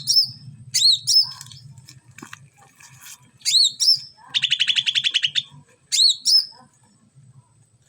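A cak ranting, a small songbird, calling. Sharp upswept chirps come in quick pairs and threes, and a fast trill of about a dozen notes a second runs for about a second midway. A faint low hum lies underneath.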